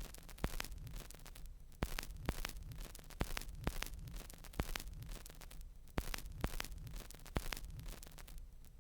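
Vinyl-style crackle at the tail of a lofi track after the beat has stopped: scattered irregular clicks over a quiet hiss and a steady low hum.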